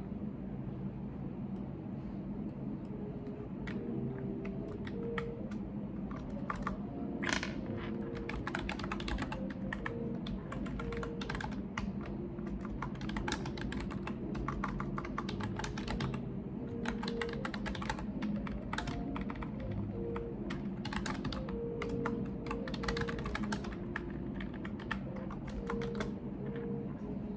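Typing on a computer keyboard, fast runs of key clicks in bursts with short pauses, starting a few seconds in, over a steady low background hum.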